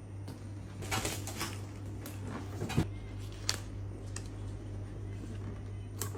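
Scattered light clicks and rustles of hands handling sticker film on a fishing-rod tube, over a steady low hum.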